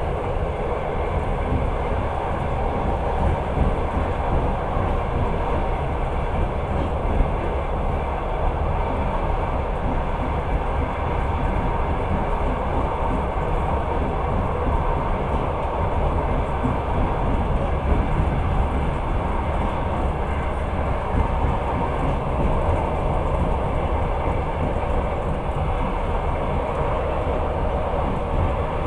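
Passenger train in motion, heard from inside the carriage: a steady rumble of the wheels running on the rails.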